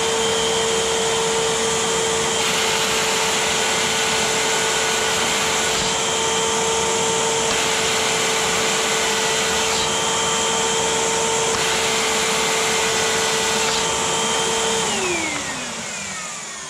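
Eureka multi-cyclonic upright vacuum running with a steady whine, switched off about fifteen seconds in and winding down with a falling pitch. It sounds normal, not broken.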